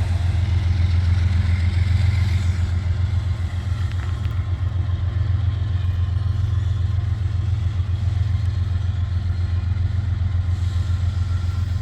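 GE ES40DC diesel-electric locomotive's GEVO-12 diesel engine running steadily at low throttle: a deep, even, pulsing rumble.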